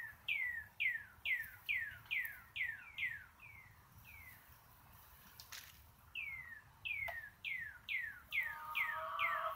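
A songbird singing a run of quick, clear downslurred whistles, each falling in pitch, about two to three a second; the run breaks off for about two seconds midway and then starts again. Near the end a lower, steady drawn-out call joins in.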